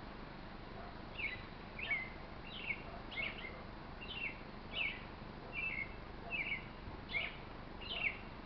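A bird calling a series of short, sharp notes, each falling in pitch, repeated about every 0.7 seconds over a steady outdoor background hiss.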